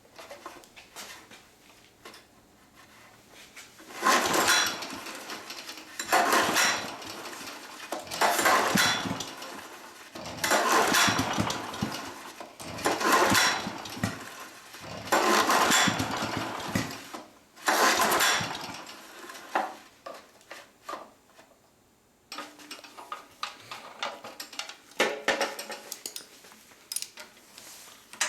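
Small engine of a walking tractor being pull-started again and again without starting: seven pulls about two seconds apart, each cranking briefly and dying away. The hard starting is put down to a bad spark plug. Lighter clicks and rattles follow near the end.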